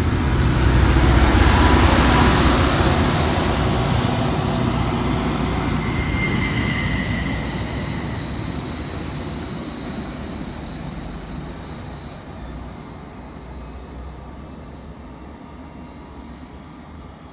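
Greater Anglia Class 755 Stadler FLIRT bi-mode unit pulling away and accelerating under diesel power: engine rumble with high whines rising in pitch, loudest about a second or two in, then fading steadily into the distance.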